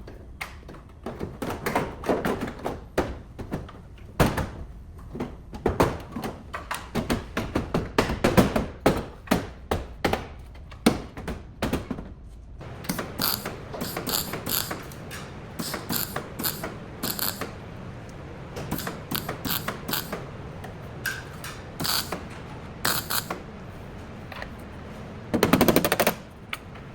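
Rapid, irregular clicking and knocking of hand tools working on car body parts. It comes in dense bursts for the first dozen seconds, then as sharper, brighter metallic clicks, with a loud cluster of knocks near the end.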